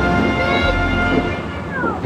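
Music playing over the booms of a fireworks display. The music fades in the second half as the bangs carry on.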